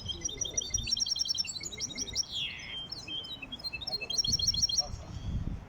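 Caged finch singing a goldfinch-style song: fast runs of short, high twittering notes, with a quick downward-sliding note about two seconds in. Some low rumbling sounds near the end.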